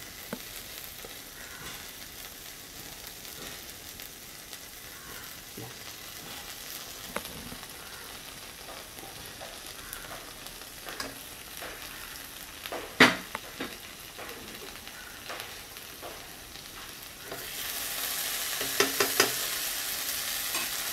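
Onion-and-chilli masala frying in a pan, a low sizzle with scattered spoon clicks while tomato sauce is spooned in, and one sharp clink about two thirds of the way through. Near the end the sizzle grows louder, with a few more taps.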